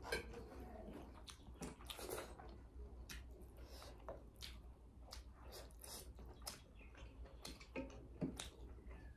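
Close-up eating sounds: two people chewing rice and chicken eaten by hand, with frequent small irregular clicks and smacks and the soft sound of fingers working rice on metal plates.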